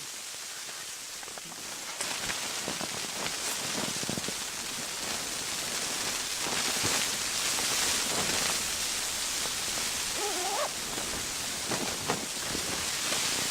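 Storm wind gusting against a tent, the rushing noise rising about two seconds in and staying strong. A brief wavering whistle comes near the end.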